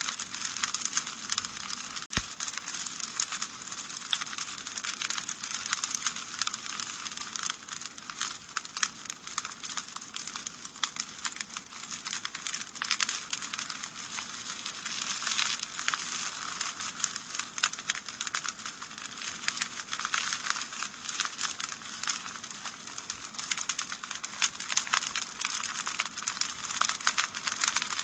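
Wood fire crackling in a fireplace: a dense, steady run of small snaps and pops over a soft hiss, with one sharper pop about two seconds in.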